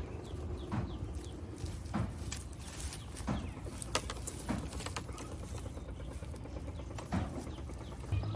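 Irregular sharp knocks or taps, about one a second, over a low steady rumble.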